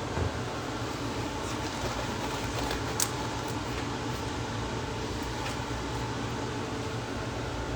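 Steady fan-like hum and hiss of room background noise. It is broken by a few light clicks and one sharper click about three seconds in.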